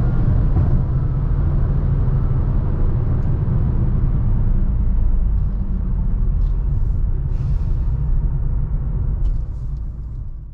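Honda Elevate driving at a steady pace: a continuous low engine and road rumble, easing off near the end as the car slows.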